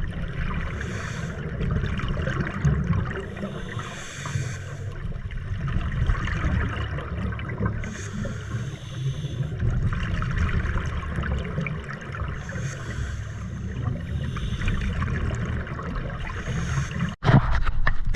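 Scuba diver breathing through a regulator underwater during a decompression stop: a burst of exhaled bubbles about every three to four seconds over a steady low rumble. The sound cuts off abruptly about a second before the end, and a louder, different sound follows.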